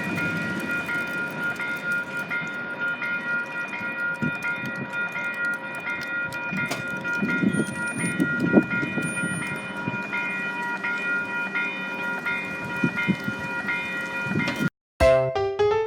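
Calgary C-Train light-rail train passing a level crossing, its rumble and rail knocks under the crossing's warning bell, which rings about twice a second. It cuts off near the end and piano music begins.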